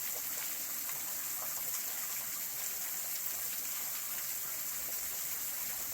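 Small waterfall running among ice, a steady splashing hiss with scattered faint drips.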